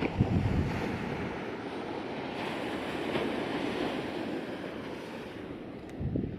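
Ocean surf washing up the beach, swelling in the middle and easing off, with wind buffeting the microphone at the start and again near the end.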